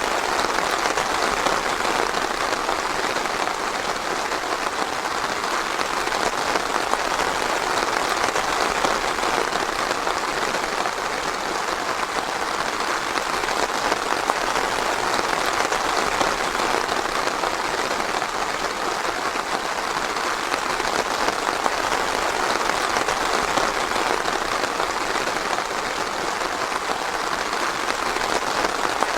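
Steady light rain falling on forest leaves and ground: a dense, even patter with no thunder.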